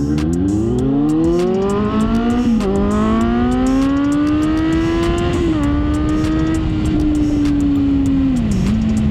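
A vehicle engine accelerating hard through the gears: its pitch climbs, drops sharply at upshifts about two and a half and five and a half seconds in, then holds steady with a brief dip near the end.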